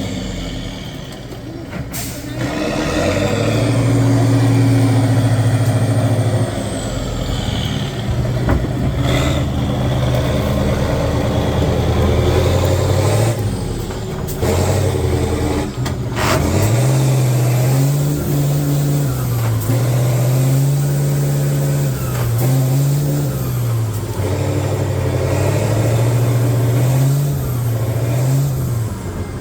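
Heavy off-road competition truck's engine working hard, its pitch rising and falling over and over as the throttle is opened and eased in the second half. A few short, sharp hisses cut through, typical of air brakes.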